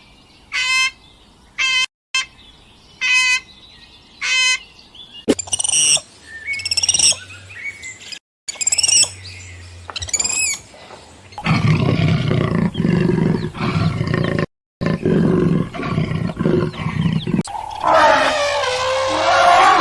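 A run of short animal-call clips cut together. First come five brief chirps about a second apart and more bird calls with gliding pitch. About halfway in, a deep, rough animal call takes over, and near the end there is a falling pitched call.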